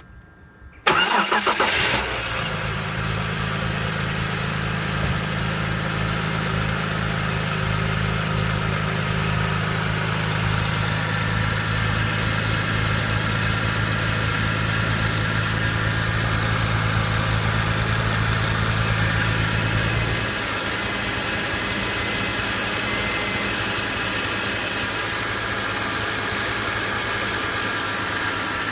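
BMW E46's M54 straight-six engine starting about a second in, then idling, with a steady high-pitched, fluttering whistle from the accessory belt drive on the alternator side: a belt or idler/tensioner pulley, which the owner can't yet pin down. The engine's low hum drops about two-thirds of the way through as the idle settles.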